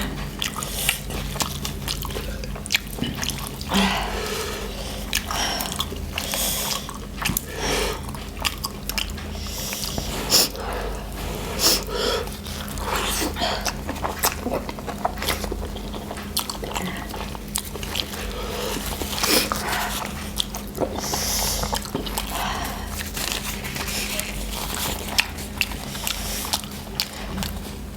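People chewing and biting spicy noodles: irregular small mouth clicks and smacks, with a steady low hum underneath.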